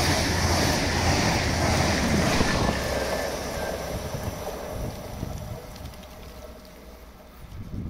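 Deutsche Bahn ICE T electric multiple unit passing close at speed: a loud rush of wheels on rail and air. After about three seconds it fades steadily to a much quieter rumble.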